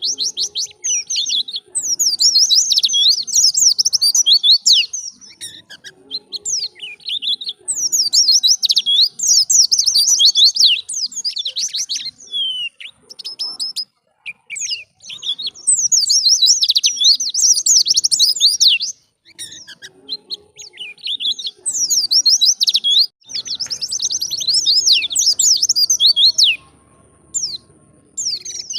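White-eye (pleci) singing: rapid, high twittering phrases lasting a few seconds each, separated by short pauses, with a longer break about halfway through.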